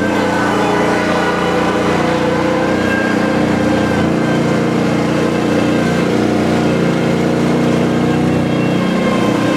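Skid steer engine running steadily at a constant speed, loud and even.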